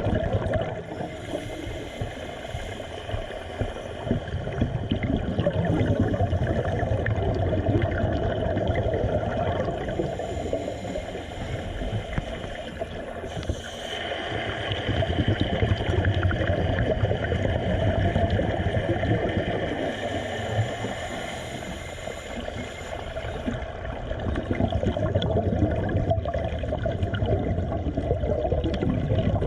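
Underwater bubbling and gurgling water noise, swelling and easing every several seconds.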